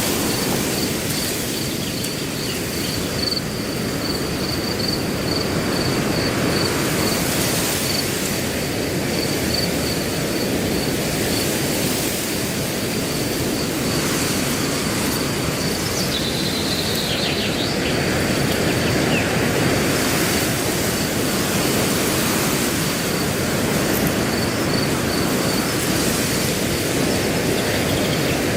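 Wind blowing through grass, a steady rushing, with a cricket chirping in a fast, even pulsing trill throughout. A bird gives short calls at the start and again about 16 seconds in.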